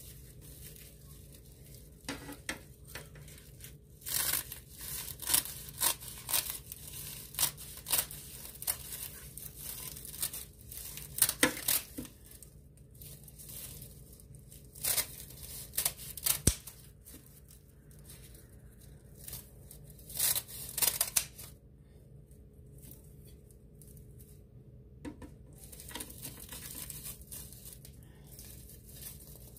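Scissors snipping through a stack of crisp roasted seaweed (nori) sheets, with crackling and rustling as the brittle pieces are cut and handled. The snips come irregularly, thickest through the first two-thirds and sparser near the end.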